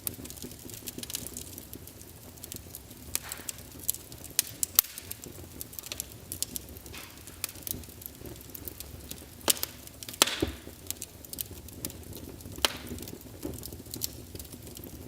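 Wood fire burning in a fireplace, crackling with irregular sharp pops over a low steady noise from the flames. The loudest pop comes about ten seconds in.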